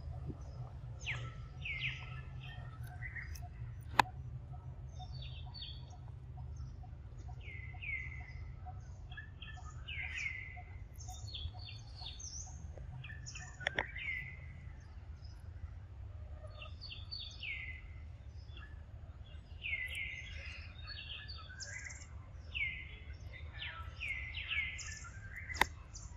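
Small birds chirping over and over, each call a short note falling in pitch, busiest in the second half, over a steady low rumble. Three sharp clicks stand out, the loudest about four seconds in.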